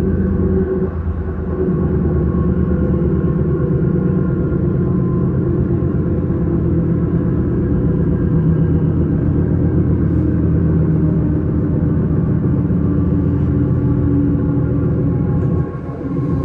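S-Bahn train running at speed, heard from inside the carriage: a steady rumble with several steady tones from the drive.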